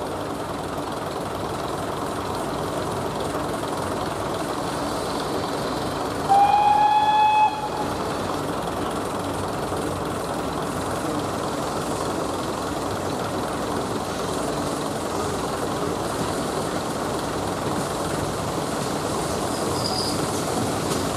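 A Class 117 diesel multiple unit idles steadily at the platform. About six seconds in comes a single loud, high, pitched blast from a train lasting just over a second.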